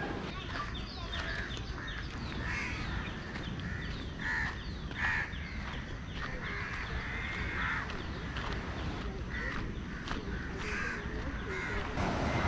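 Birds calling: a busy run of short, repeated calls, several overlapping, over a steady low background rumble.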